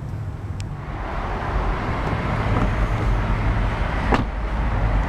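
2011 Ford Mustang GT's 5.0-litre V8 starting up: the sound grows fuller and louder about a second in and settles into a steady low idle. There is one short sharp sound about four seconds in.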